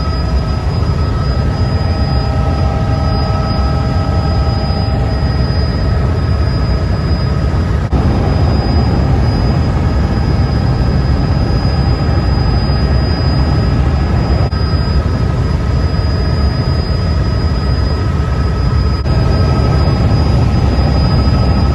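Helicopter cabin noise in flight: a loud, steady low rumble from the rotor and engine, with a thin steady high whine over it.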